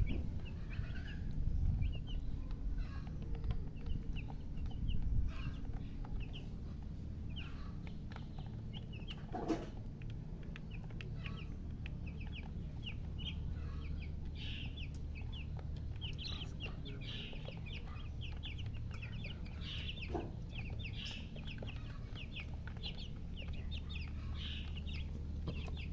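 Baby chicks peeping: many short, high chirps, sparse at first and coming thick and fast through the second half. A single sharp knock about a third of the way in.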